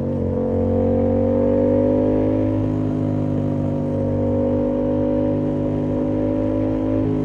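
Yamaha MT-07's parallel-twin engine through an SC-Project exhaust with the dB-killer fitted, running under way at steady revs; the pitch creeps up a little over the first two seconds, then holds.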